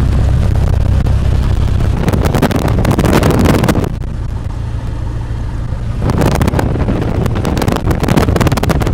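Cessna 172's single piston engine and propeller droning steadily as heard inside the cabin, with rough rushing noise and crackle from wind on the microphone. The rushing eases for about two seconds partway through, while the low drone carries on.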